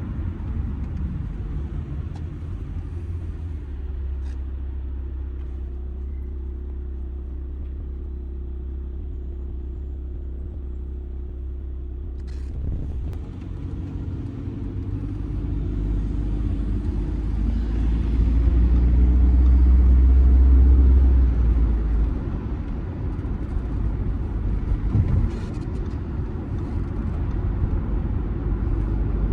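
Audi A6 C6 2.0 TDI diesel engine and road rumble on the move in town, a low steady drone. It grows louder as the car pulls away about two-thirds of the way through, then eases off. A couple of faint clicks are heard along the way.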